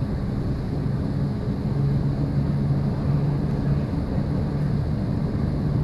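Passenger train running at speed, heard from inside the carriage: a steady low rumble from the wheels and track with a steady low hum.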